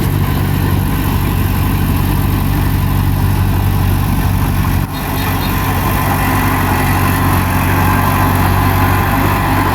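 Bulldozer's heavy diesel engine running steadily at work, with a brief dropout about five seconds in.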